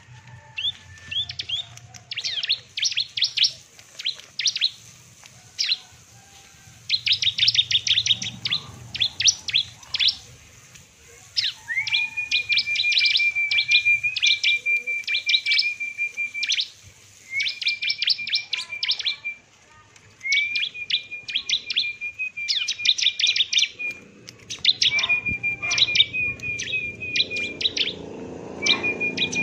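A songbird singing in long phrases of rapid, high chipping notes. In the later phrases a steady high whistle is held beneath the chips.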